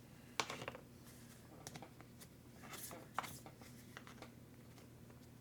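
Scattered small clicks and rattles of hard RC-car parts and screws being handled while the truggy is taken apart, over a steady low hum.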